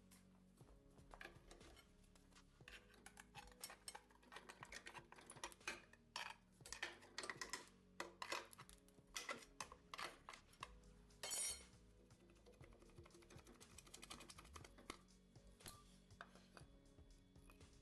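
Metal tools and engine parts clinking and knocking in quick irregular bursts during an engine teardown, with a brief louder burst of noise about eleven seconds in. Quiet background music plays underneath.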